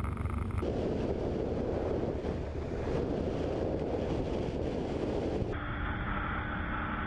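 Wind buffeting a microphone on a moving motorcycle, over a low engine rumble. The sound changes abruptly about half a second in and again near the end.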